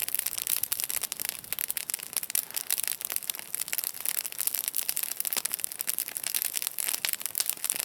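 Dry pine needles being snapped and crushed by hand, a dense run of fine crackling.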